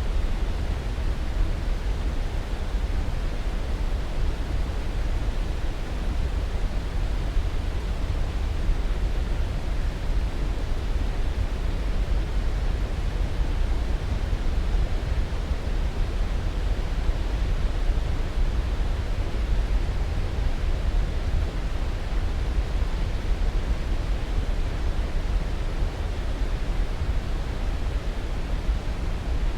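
Steady white noise: an even, unchanging rush with most of its weight in the low end.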